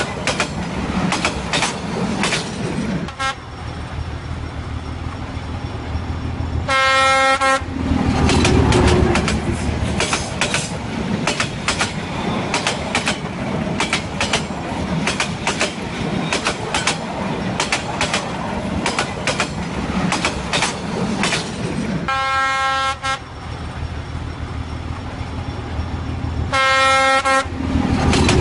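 Trains passing close by, wheels clattering over the rails in a rapid clicking rhythm. A locomotive air horn sounds three short blasts, about a second each: about 7 seconds in, about 22 seconds in, and near the end.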